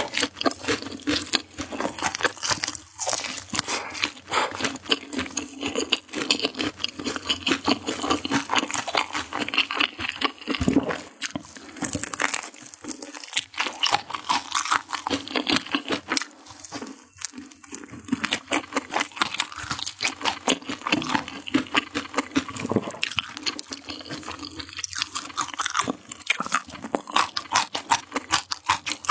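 Eating crispy fried chicken: dense crunching of the fried coating and wet chewing. Near the end a pickled radish stick is bitten and chewed.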